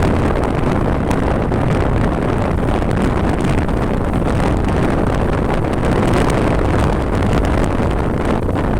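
Motorcycle riding at a steady speed: wind rushing over the microphone mixed with the engine and road noise, a steady unbroken rumble.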